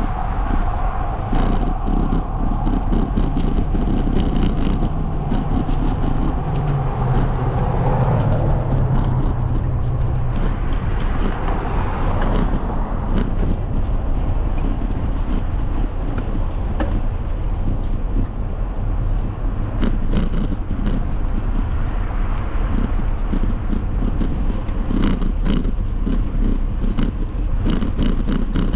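Wind buffeting the microphone over a steady road rumble while riding, with scattered short clicks and rattles near the end.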